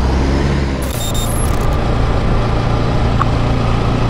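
Bajaj Rouser 200 NS single-cylinder motorcycle engine running steadily while riding, heard from the bike-mounted camera with wind and road noise. A brief high-pitched tone sounds about a second in.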